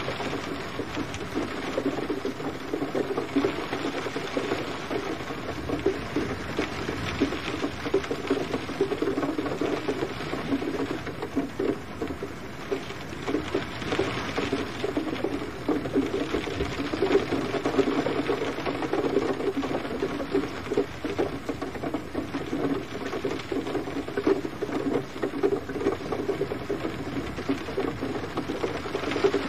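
Steady rain pattering, a dense even hiss of drops with no let-up.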